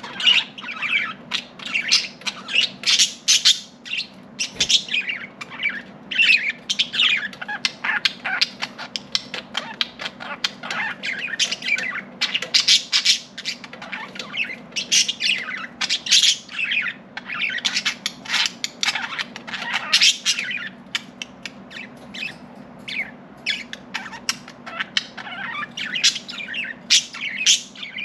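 A flock of budgerigars chattering continuously: rapid chirps, warbles and squawks overlapping without pause. A faint steady low hum runs underneath.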